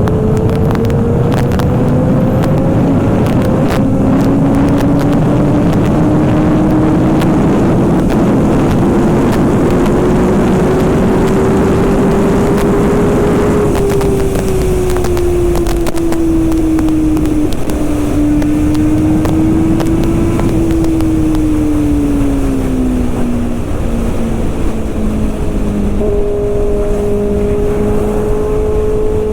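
Kawasaki ZX-6R's inline-four engine and exhaust on the move. The engine note climbs slowly for about half the time, then drops away and settles to a steady cruise, over heavy wind rush on the microphone.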